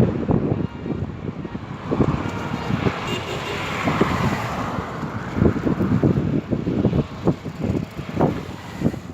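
Strong gusty wind buffeting the microphone in irregular low thumps, with a louder rushing swell about three to five seconds in.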